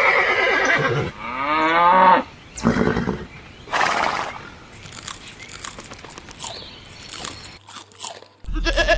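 A horse whinnying, a wavering call that falls in pitch over about two seconds, followed by two short crunching noises.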